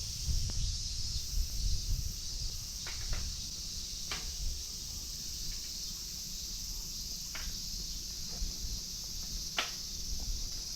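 Steady high-pitched drone of a summer insect chorus over a low rumble, with a few sharp clicks scattered through.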